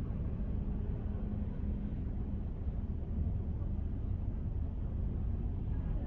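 A car driving, with a steady low engine and road rumble and a faint hum.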